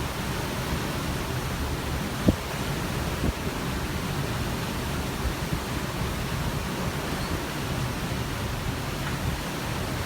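Steady rushing of the sea and wind heard from a cruise ship, with two brief low thumps of wind on the microphone a couple of seconds in.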